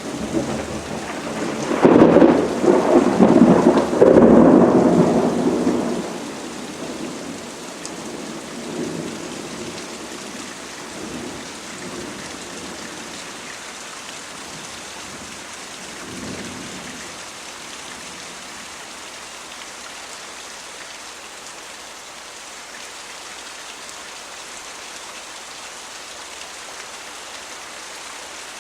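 Steady rain with a loud roll of thunder about two seconds in that rumbles for several seconds and fades, and a fainter rumble about midway; after that, only the even hiss of rain.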